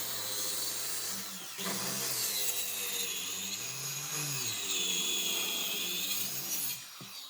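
Electric power tool running on wood, its motor pitch dipping and rising as it works; it stops near the end.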